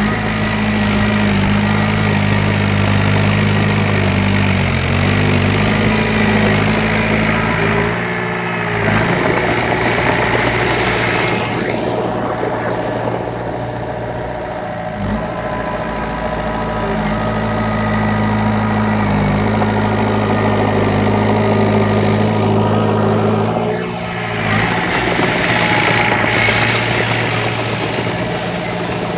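Heavy diesel earthmoving machinery running steadily. Its deep engine note drops out and comes back twice, around eight seconds in and again near twenty-four seconds.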